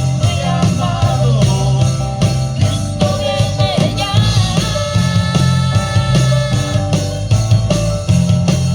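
A band playing a rock-style song, with drum kit and guitar and a singing voice over a steady beat, heard through the sound system during a sound check.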